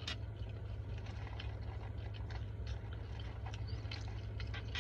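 A person chewing and biting food, with irregular small crunching clicks over a steady low hum.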